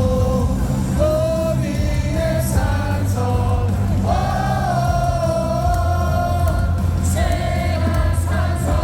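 Stadium crowd singing a cheer song in unison along with amplified music.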